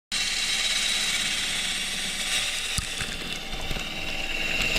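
A lathe spinning a green poplar blank while a turning tool cuts into its inside to hollow it: a steady hiss of cutting with a high whine that drops in pitch about two-thirds of the way through. It starts abruptly.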